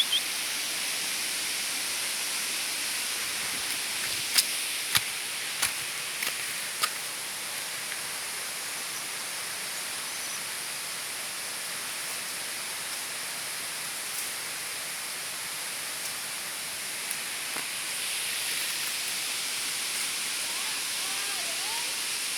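Steady rushing of water from a waterfall, with a few sharp clicks about four to seven seconds in.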